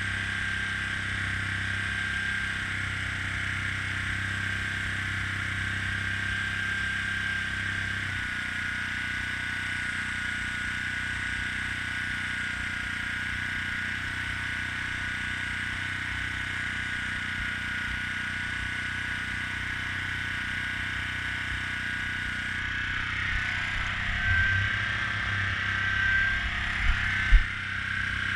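Airbrush hissing steadily over a small air compressor's low hum. The compressor shuts off about eight seconds in and starts up again near the end, and a couple of sharp knocks follow.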